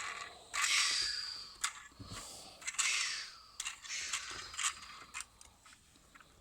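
A plastic transforming toy robot being handled: rustling with a run of sharp plastic clicks, fading out toward the end.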